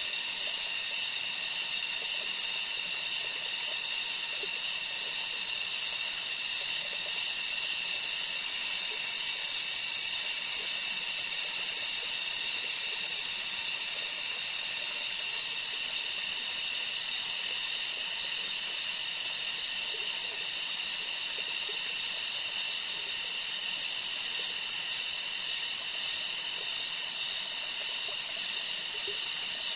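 Steady high-pitched buzzing of a rainforest insect chorus, likely cicadas, holding several fixed pitches. It swells a little about eight seconds in and eases back by about thirteen seconds.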